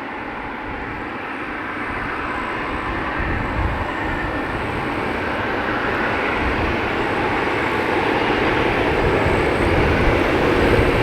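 Jet engines of a Boeing 737-800 taxiing after landing, a steady rushing whine that grows steadily louder as the airliner comes closer.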